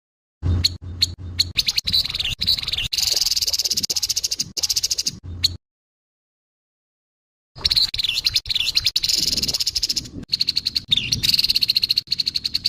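Grey-headed babbler giving its harsh call: rapid, repeated rasping chatter in two long bursts, broken by a sudden silence of about two seconds in the middle.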